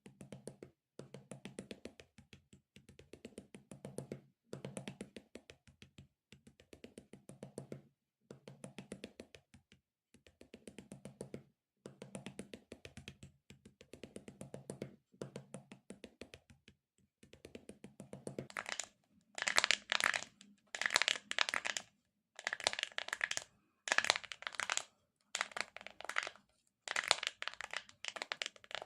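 Close-miked ASMR handling sounds: short crackly bursts repeat about once a second. About 18 s in they turn brighter and louder.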